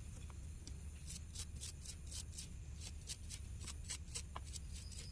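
Faint, irregular scratching strokes, a few a second, as a small tool scrubs the corroded USB Type-C charging connector of a water-damaged earbud case. A low steady hum lies underneath.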